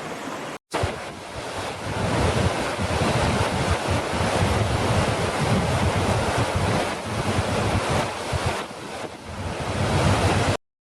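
Steady rush of falling water with wind buffeting the microphone, swelling and easing in gusts. The sound cuts out for a moment just under a second in and stops abruptly near the end.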